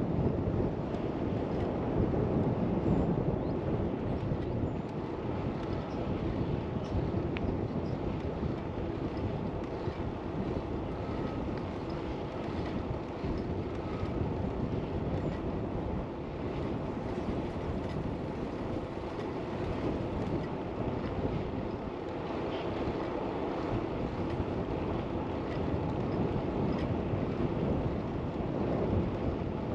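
Steady wind rushing over a GoPro's windscreened microphone while cycling, a constant low rumbling noise with no distinct events.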